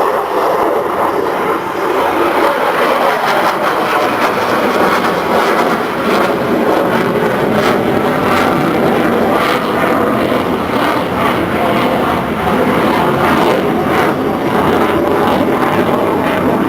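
Loud, steady engine noise from an aircraft in flight, with a deeper rumble filling in from about four seconds in.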